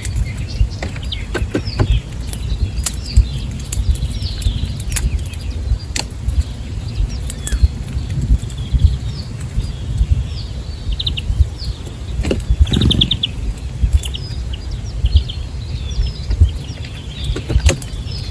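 Small birds chirping and twittering repeatedly at a feeder, with scattered sharp clicks and taps, over a constant low rumble.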